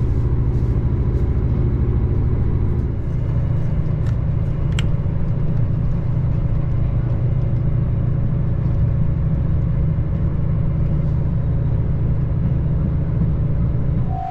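Steady low rumble of a diesel limited-express train running, heard from inside the passenger cabin, with one sharp click about five seconds in.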